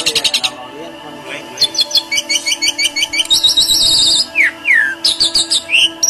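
A caged bird calling: a rapid high trill that stops about half a second in, then series of sharp repeated chirps, a fast run of notes, two quick falling whistles and a rising one near the end.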